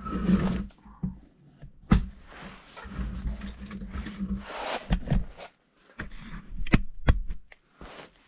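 Steel pieces being handled and fitted by hand: scattered rustling and scraping with a few sharp metal knocks and clacks, the loudest about two seconds in and near the end.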